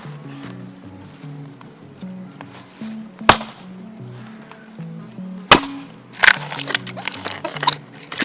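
Wood being chopped or snapped: two sharp wooden knocks a couple of seconds apart, then a quick run of cracking and splintering near the end, over soft background music with a slow low melody.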